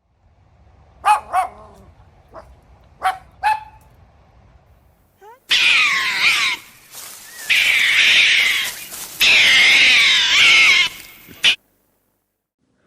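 A dog yipping four short times, then a loud stretch of high, wavering cries that cuts off suddenly.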